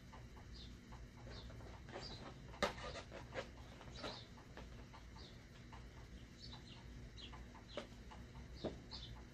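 Faint bird calls: short high chirps repeating roughly once a second, with a few louder sharp sounds among them, over a low steady hum.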